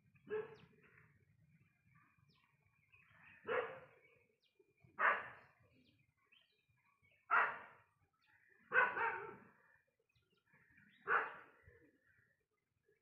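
A dog barking six times, single barks one to two seconds apart, with faint bird chirps in between.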